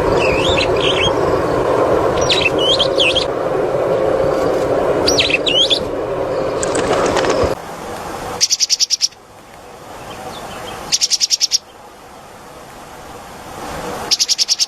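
Small songbird calling: a few twisting chirps over a steady background hiss, then three loud, fast trills of rapidly repeated high notes, each about half a second long and two to three seconds apart.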